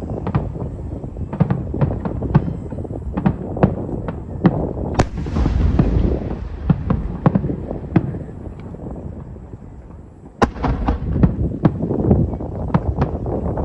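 Fireworks shells bursting in quick succession, each sharp bang followed by a low rumble. A big burst comes about five seconds in, then a short lull, then another loud bang and a rapid string of reports.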